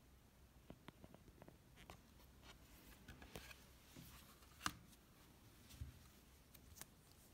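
Faint paper handling: the pages of a children's mask book being turned and touched, with scattered light taps and rustles and one sharper click about two-thirds of the way through.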